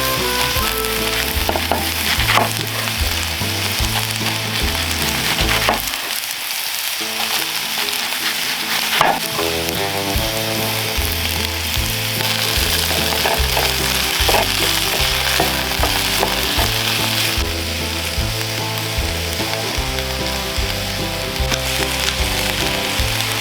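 Food sizzling as it fries over a campfire, with background music playing over it.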